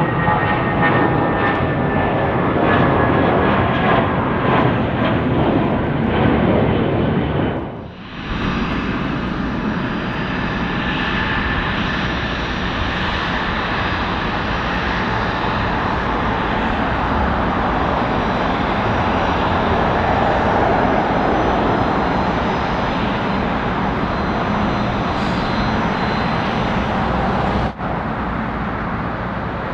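Jet airliner engines. First an Airbus A320's IAE V2500 engines at departure power, with a slightly falling whine over the noise. After a cut about eight seconds in, a Boeing 777-300ER's GE90 engines run steadily as it taxis.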